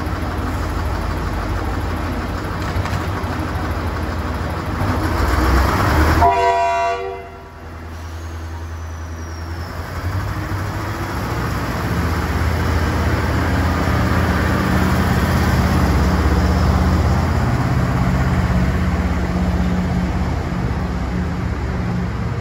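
Train running through a station platform, with a short horn toot about six seconds in. Afterwards comes a steady low diesel drone that grows louder as a V/Line Sprinter diesel railcar approaches.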